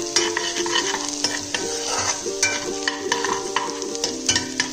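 A steel spoon stirring chopped garlic and ginger sizzling in butter in an aluminium pressure cooker, with frequent small clicks and scrapes of the spoon on the pan. Steady held notes, like background music, run underneath.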